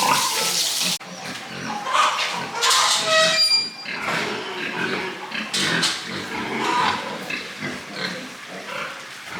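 Pigs grunting and snuffling, with a short high squeal about three seconds in. A rush of water-like noise stops about a second in.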